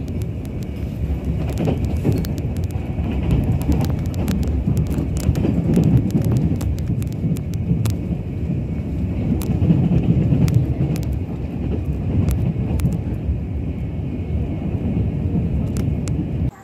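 Steady low rumble of a moving train heard from on board a Tze-Chiang express, with scattered sharp clicks and knocks from the wheels and track.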